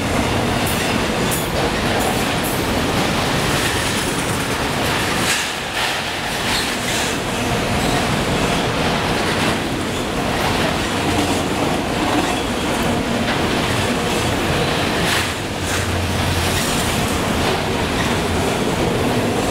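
CSX freight train of autorack cars rolling past: a steady rumble and rattle of steel wheels on the rails, with scattered clacks as wheels run over rail joints.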